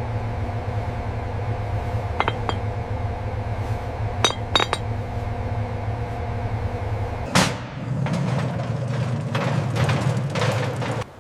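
Sharp metallic clinks over a steady low machine hum, then a single loud impact about seven seconds in, followed by busier clattering.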